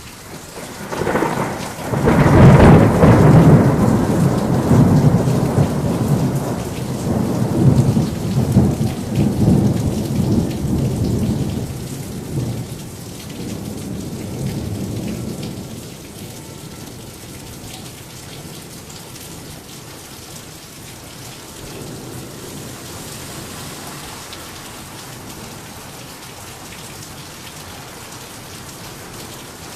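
A thunderclap about a second in breaks into a long, loud, low rolling rumble of thunder that fades over some ten seconds, over heavy rain falling steadily. Once the thunder dies away, only the steady hiss of the downpour remains.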